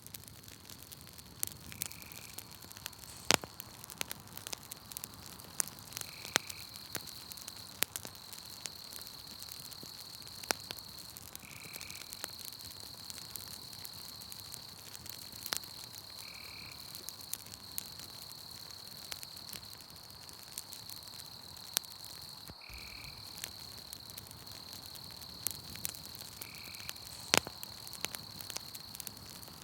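Campfire crackling, with scattered sharp pops that are the loudest sounds, over a steady high insect trill like crickets. A short call repeats about every four to five seconds.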